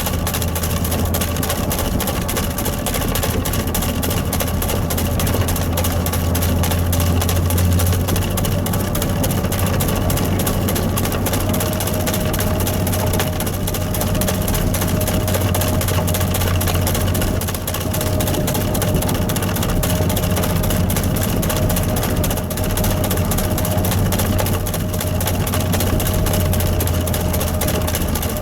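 Engine of a snow-clearing machine running steadily with a deep hum, a faint whine over it stepping up slightly in pitch about eleven seconds in.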